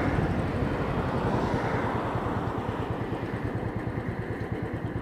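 Royal Enfield Thunderbird's single-cylinder engine running with a steady low, even beat, heard from on the bike; the engine and air noise grow gradually quieter as the bike slows.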